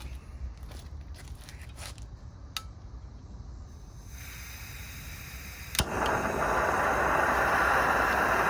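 Camp Chef gas camp stove being lit: a soft gas hiss begins about four seconds in, a single sharp igniter click comes near six seconds, and the burner catches at once and runs with a loud, steady rushing noise.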